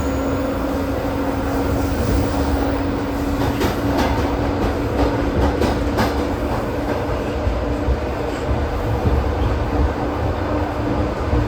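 ED4M electric train running between stations, heard from inside the car: a steady rumble with a constant hum, and a short run of sharp clicks from the wheels over the rails a few seconds in.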